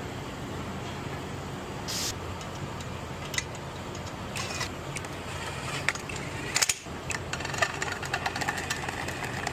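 Intermittent clicks, knocks and rattles of parts and tools being handled during exhaust header fitting, over a steady low hum. The busiest clatter comes in the second half, with a sharp cluster of knocks partway through.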